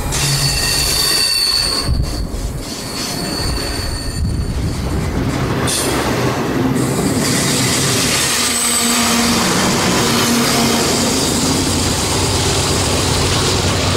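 Freight train rolling past close by, its steel wheels squealing on the rails: a high-pitched squeal over the first few seconds, then a steady rolling noise of wheels on track.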